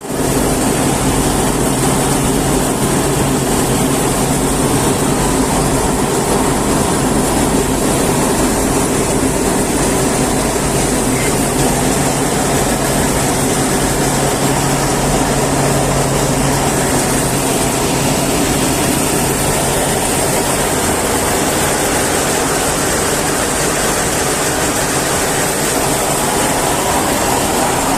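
A steady, loud machine drone with a low hum and a high hiss, unchanging throughout.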